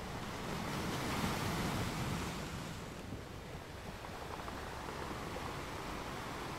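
Steady tyre and road noise with wind from a car driving at about 35 mph, heard inside the cabin through a dashcam. It swells a little between about one and two and a half seconds in.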